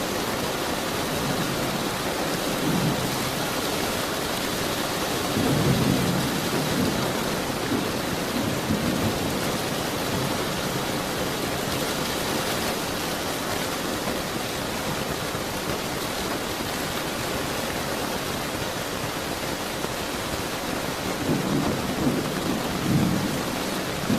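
Steady rain with low rumbles of thunder rolling in several times, the strongest about six seconds in and two more near the end.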